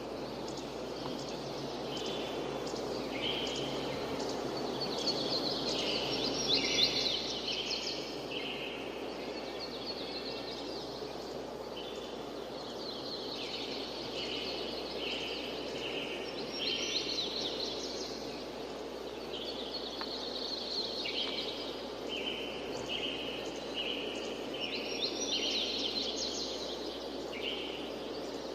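Songbirds chirping and singing in short, repeated phrases over a steady, even background rush of outdoor noise.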